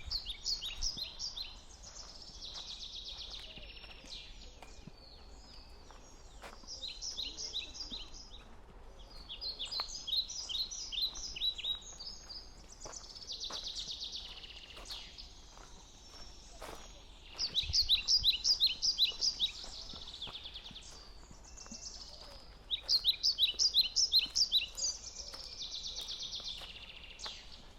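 Songbirds singing, with a string of short phrases, each a fast run of high, repeated notes, over a steady faint background hum. Two of the phrases, about two-thirds of the way in and near the end, are the loudest.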